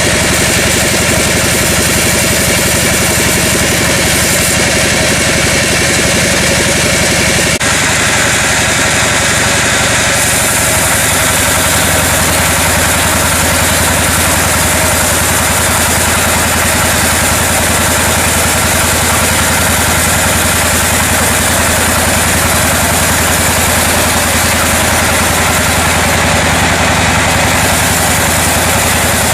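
Sawmill machinery running with a steady engine drone, changing abruptly about eight seconds in.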